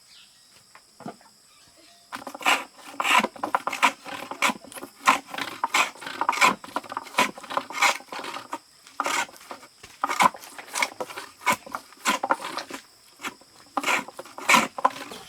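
Rapid, irregular rasping scrapes, several strokes a second, starting about two seconds in after a brief hush with insects trilling.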